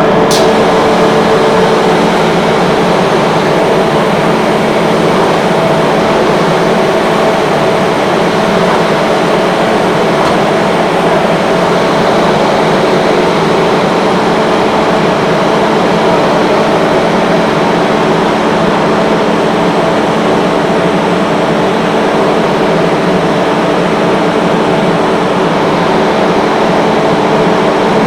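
Rotary screw air compressor running steadily: a loud, even machine noise with several steady hums over it.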